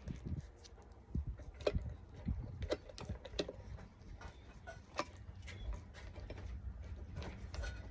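A spoon stirring dog food softened with hot water in a bowl: irregular clinks, knocks and scrapes.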